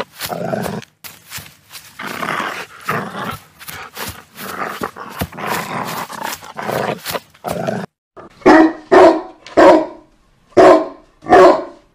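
A dog growling in short rough bursts, then about eight seconds in a run of loud barks, three and then two more after a short pause.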